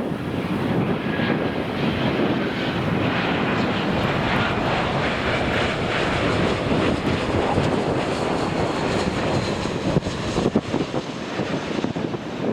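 Engine noise of a large jet airliner passing close by, loud and steady, with wind buffeting the microphone near the end.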